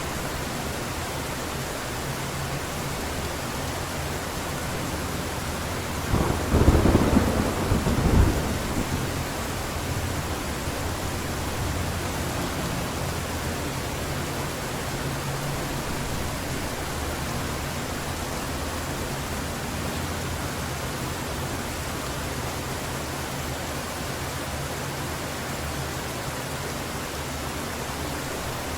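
Heavy rain falling steadily, with a crack of thunder about six seconds in that peaks twice and then rolls off into a low rumble over the next few seconds.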